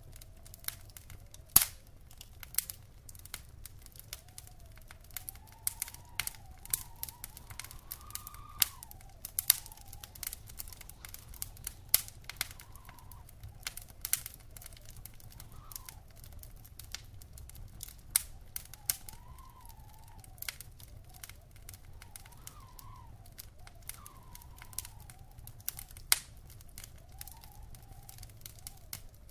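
Wood fire crackling in a fireplace: irregular snaps and pops, a few of them sharp and loud, over a steady low rumble. A faint whistle wavers up and down in pitch behind it.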